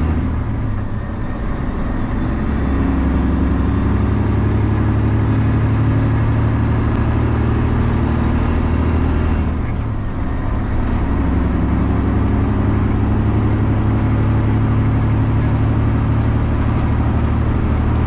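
Freightliner semi truck's straight-piped 12.7-litre Detroit Series 60 inline-six diesel running steadily while driving. Its note dips briefly about a second in and again about ten seconds in before pulling on.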